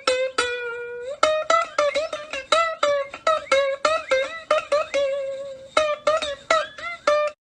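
A plucked string instrument, ukulele-like, playing a quick melody of about three to four notes a second, some of them bent in pitch. It cuts off abruptly near the end.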